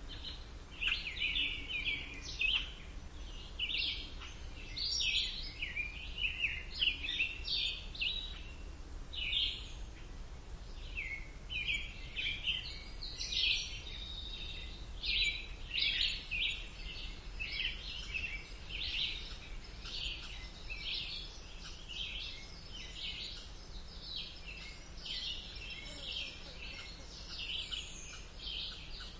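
Several songbirds chirping and singing in quick, overlapping phrases, over a faint low background rumble.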